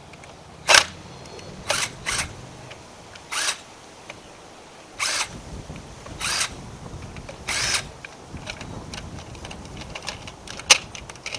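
Handling noise as the recording setup is adjusted: a series of short scrapes and rustles, about seven in eight seconds, then a scatter of small clicks and one sharp click near the end.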